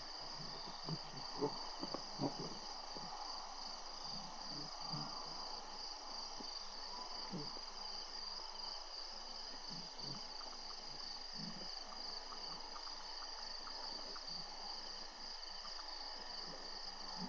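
Steady, high chirring of a cricket and insect chorus. A few soft thumps come in the first couple of seconds.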